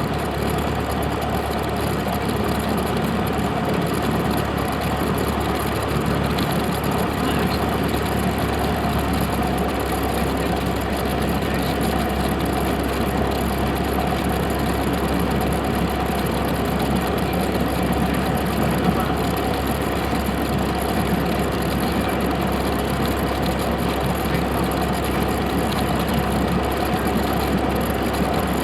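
Steady drone of a Cessna 172's piston engine and propeller, holding an even pitch and level throughout.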